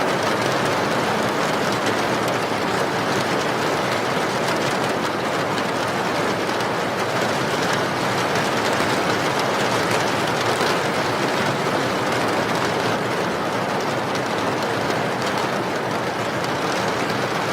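Steady rain falling: an even, unbroken hiss with faint scattered drop ticks through it.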